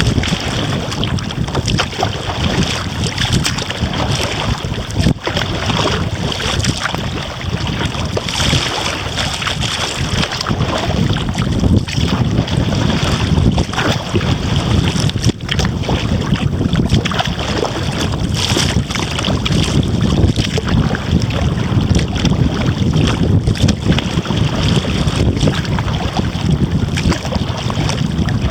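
Strong wind rumbling on the microphone despite a home-made dead-cat fur windshield, over water splashing around a paddled kayak, with short irregular splashes and knocks.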